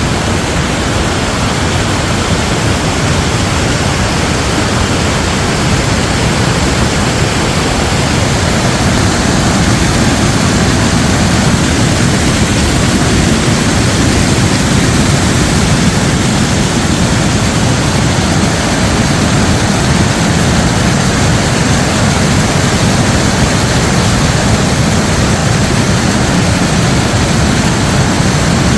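Sapo Falls waterfall making a loud, steady rush of falling water. The low part of the rush grows a little heavier about a third of the way through.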